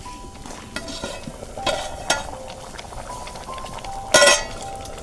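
Metal utensils clinking and scraping against pots or dishes, in scattered strikes that ring briefly, the loudest about four seconds in, over faint background music.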